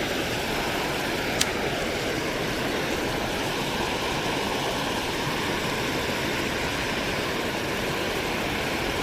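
Steady, even rush of fast, high floodwater in a creek, with a single sharp click about a second and a half in.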